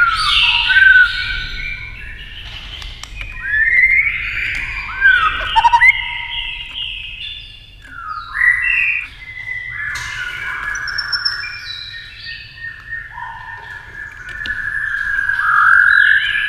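White-rumped shama singing a fast, varied song of overlapping whistled phrases, with rising slurred notes and quick clicking rattles in between.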